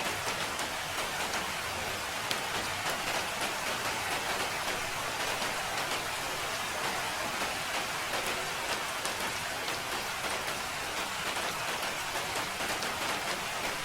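Steady rainfall, a dense even hiss of drops with many small individual drop ticks.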